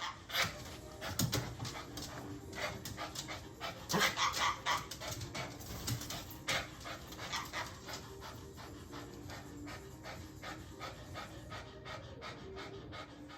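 A dog panting rapidly, with quick, irregular breaths and clicks close to the microphone.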